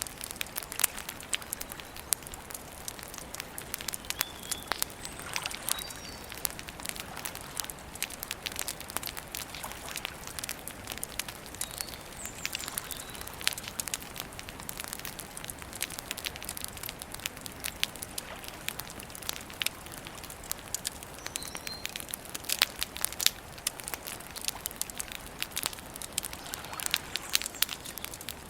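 Wood campfire crackling steadily, with frequent sharp irregular pops and snaps over a soft hiss of burning.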